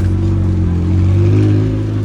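Car engine running with a deep, steady note that rises slightly and swells about a second in.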